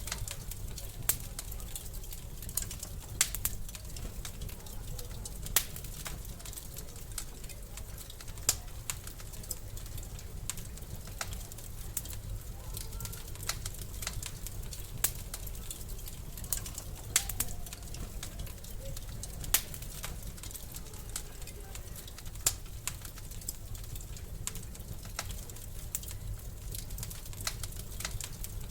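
Wood fire crackling in a fireplace: a steady low rumble of the flames with irregular sharp pops and snaps from the burning logs, a handful of them much louder than the rest.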